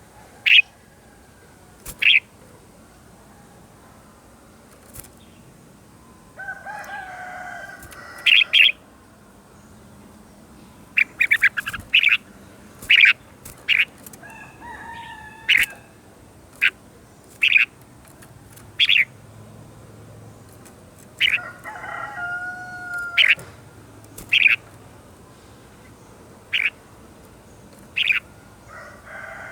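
Red-whiskered bulbul song: a string of short, sharp, loud notes at irregular intervals, broken every few seconds by longer warbled phrases.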